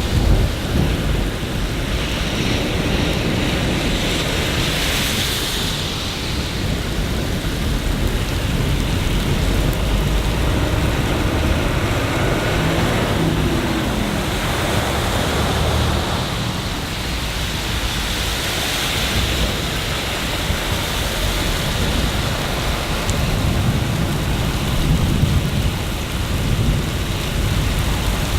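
Steady rain hissing over a deep, constant low rumble, with a few brief swells in loudness.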